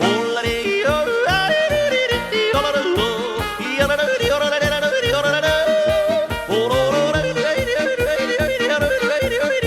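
Yodeling song: a voice yodeling with quick leaps and swoops in pitch over a bouncy accompaniment with a steady beat.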